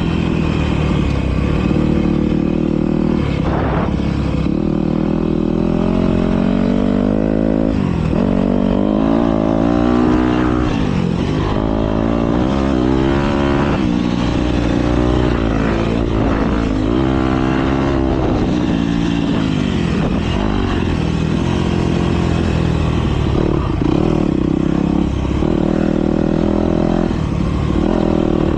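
Several motocross bikes racing past together, their engines revving up and down continuously through the corners and straights.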